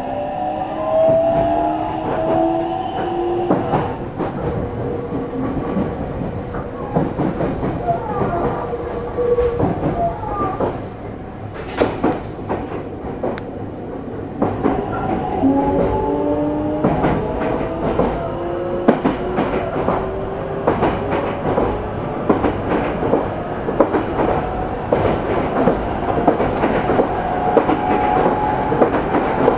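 Meitetsu 300 series electric train set 317F running, heard from inside the car, with wheel-on-rail clicks over the running noise. Its traction motor whine rises in pitch early on and fades, then rises again from about halfway as the train accelerates.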